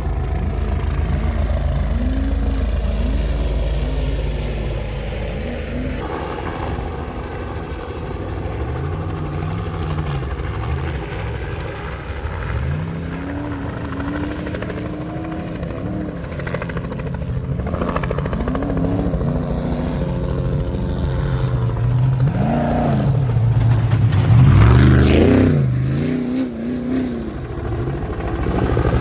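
Off-road race vehicles' engines revving hard, the pitch climbing and dropping over and over as they drive past, loudest about three-quarters of the way through. The sound changes abruptly about six seconds in and again later.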